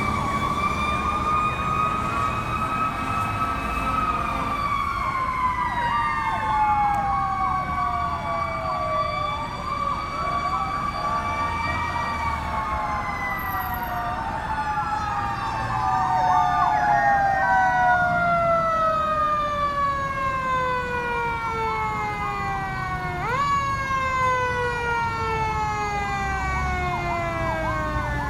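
Sirens of fire apparatus (a rescue truck and a fire engine) sounding together: overlapping wails that rise and slowly fall, with stretches of a fast warbling yelp, over the low rumble of the trucks' engines.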